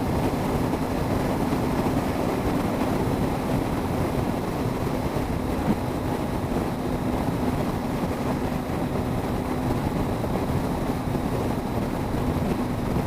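Triumph Speed Triple's three-cylinder engine running at a steady highway cruise, with wind rushing over the microphone.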